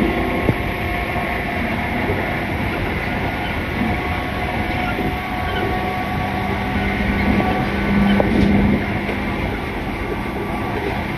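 103 series 3500-subseries electric train running between stations, heard inside the leading car: a steady rumble of motors and wheels on rail with a few clicks. It swells briefly about eight seconds in.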